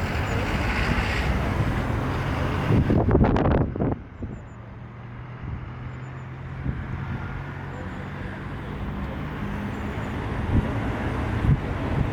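Wind buffeting the microphone in strong gusts, loudest just before about four seconds in, then easing to a lower rumble.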